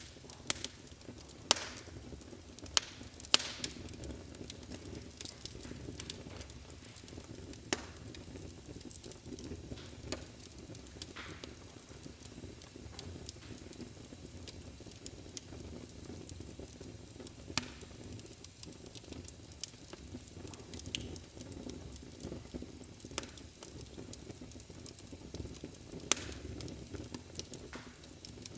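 Wood fire burning in a fireplace: a steady low rumble of flames under irregular sharp crackles and pops, with a cluster of louder pops in the first few seconds.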